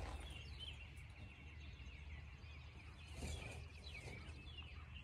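Small birds chirping faintly in repeated short calls over a low steady background rumble.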